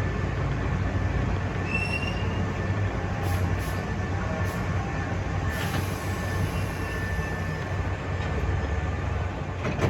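Hankyu electric train running on the rails, a steady low rumble with a brief high wheel squeal about two seconds in and a sharp click near the end.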